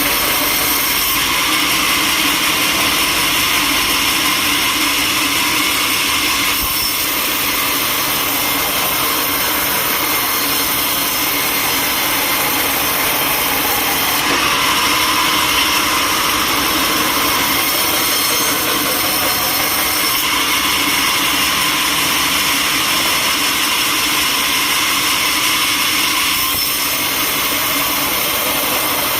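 Sawmill machinery running steadily, a loud dense mechanical noise that changes abruptly in character every several seconds.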